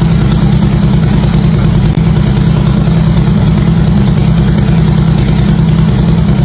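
Harley-Davidson V-twin motorcycle engine idling steadily through its exhaust, loud and even with no revving.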